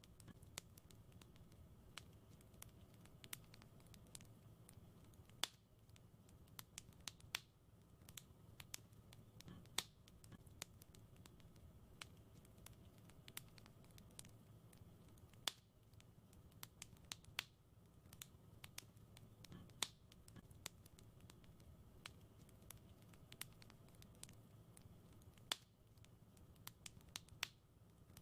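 Wood fire in a fireplace crackling: a steady scatter of small irregular snaps with occasional sharper pops, over a faint low rumble.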